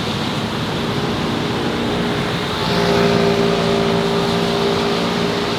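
City street traffic noise, with a motor vehicle's engine coming in about two and a half seconds in and holding a steady note close by.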